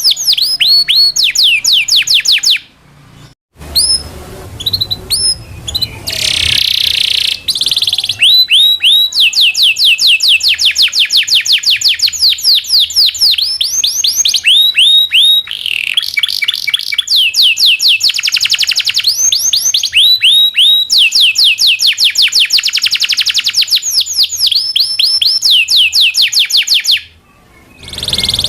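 Domestic canary singing a long song of fast rolling trills, each trill a rapid run of repeated down-sliding whistled notes. There are brief pauses about three seconds in and again near the end.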